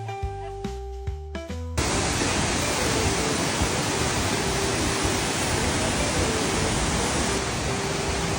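Soft plucked guitar music, cut off suddenly under two seconds in by the steady rushing roar of a waterfall in full flow.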